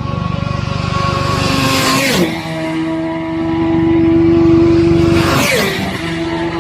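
Racing motorcycles at full speed on the road course, engines wailing at a high steady pitch. Two bikes flash past, about two seconds in and again near the end, each pitch dropping sharply as it goes by.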